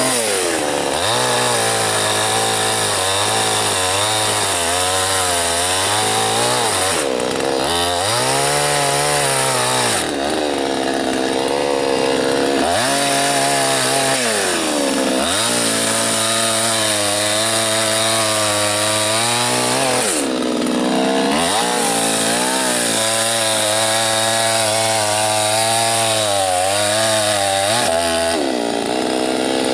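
Soyuz PTS 99520T two-stroke petrol chainsaw bucking a dry birch into firewood logs. The engine revs up to full speed for each cut and drops back toward idle between cuts, about five times.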